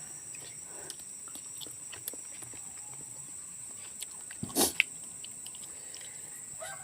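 Chewing of crunchy raw fruit with faint mouth clicks and one louder crunch about two-thirds of the way in, over a steady high hiss.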